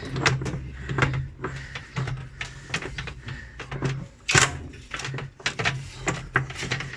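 Irregular metallic clicks and knocks of a tool working on the center nut inside an LG top-load washing machine's tub, with one sharper knock about four seconds in.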